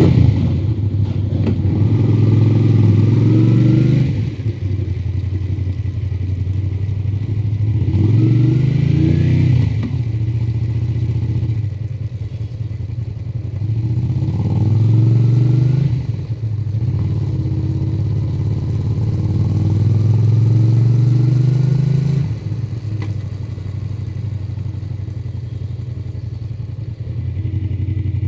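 Honda VTR250's V-twin engine through its stock exhaust, accelerating four times, each a rising note broken by gear shifts and followed by easing off. Near the end it settles to a steady, lower note.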